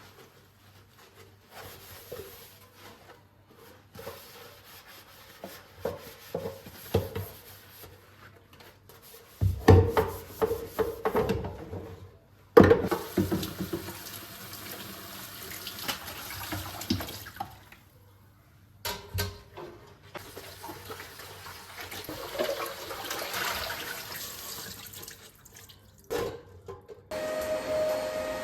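Kitchen tap running into a sink in stretches, with knocks and clatter of things being handled in between. Near the end a motor-driven appliance starts with a steady hum.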